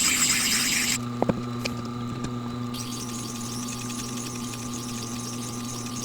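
Tormek grinder grinding a steel plane blade: the hiss of the blade on the stone stops abruptly about a second in, as the blade comes off the wheel. The grinder's motor keeps running with a steady hum, and there are a couple of light clicks just after the hiss stops.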